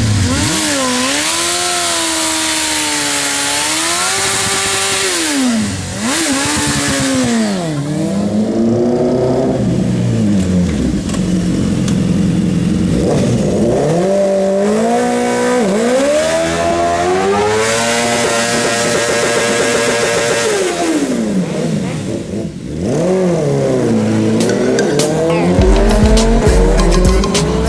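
Sport motorcycle engines revved up and down again and again over the squeal and hiss of spinning tyres in a burnout. Electronic music with a heavy bass line comes in near the end.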